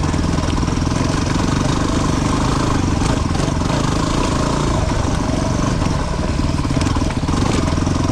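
250 cc single-cylinder dual-sport motorcycle engine running steadily, with a low, even throb.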